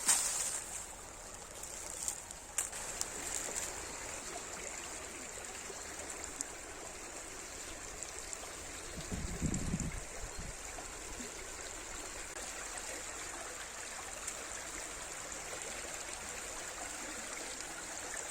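Steady rush of a small river's flowing water, with a few faint clicks near the start and a brief low rumble about nine seconds in.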